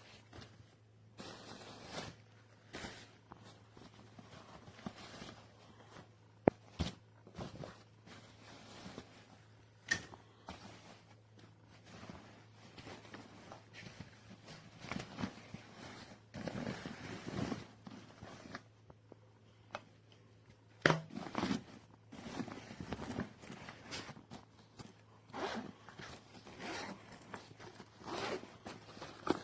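A fabric backpack being handled, with zippers pulled and nylon rustling, broken by scattered sharp clicks and knocks. A faint steady hum sits underneath.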